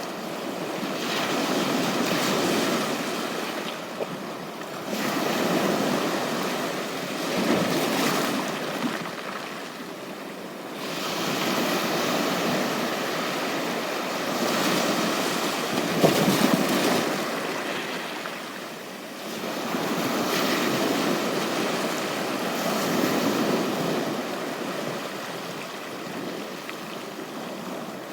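Sea waves breaking and washing up a beach, one swell of surf every three to four seconds, with a sharper wave crash about halfway through.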